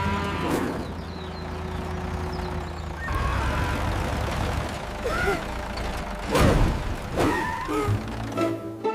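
Cartoon soundtrack: a steady low engine-like hum with a few short farm-animal calls about five to seven seconds in, and light plucked-string music starting near the end.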